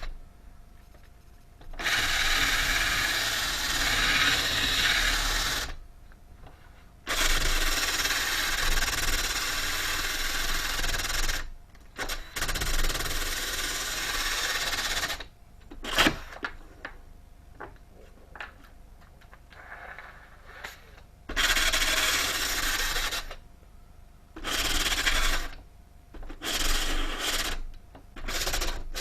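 Sanding wood, likely the plywood and boards of the fireplace surround: steady abrasive rubbing in several stretches of two to four seconds with short pauses between them, and a single sharp click about 16 seconds in.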